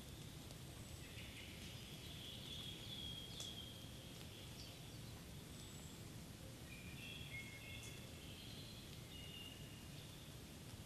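Faint birdsong in a spring forest: short whistled phrases and sharp chirps from a few birds, in two stretches, over a steady low background rumble.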